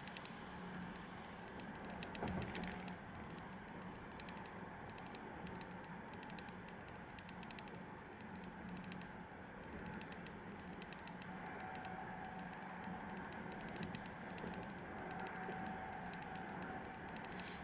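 Car driving on a wet road in the rain: steady road and engine noise with a low hum, dotted with many light, irregular ticks of raindrops striking the car.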